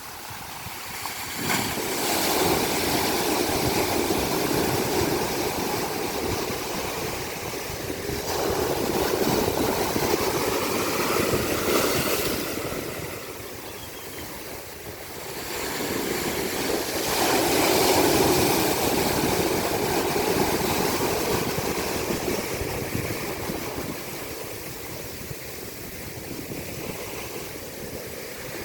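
Ocean surf breaking and washing up the beach, in long surges that swell about two seconds in, again around nine seconds and around seventeen seconds, then ebb away.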